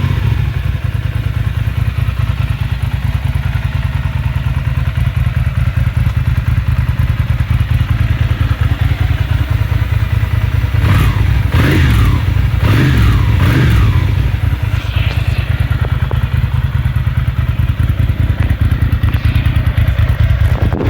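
2002 Ducati Monster 620's air-cooled V-twin running on choke just after a cold start, with the revs rising and falling a few times about halfway through.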